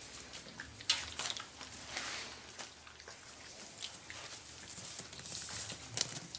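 Puppies moving about on a hard floor: scattered light taps and brief scuffs at an uneven pace, with a sharper click about a second in and another near the end.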